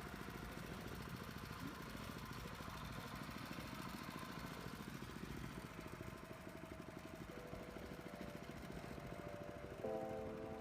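Houseboat engine running steadily: a low, even rumble with rapid regular pulses. Music with held notes comes in near the end.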